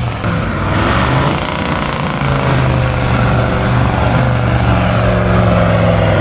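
Four-wheel-drive engine running hard at fairly steady revs under load, with a broad hiss over it; the sound cuts in and out abruptly.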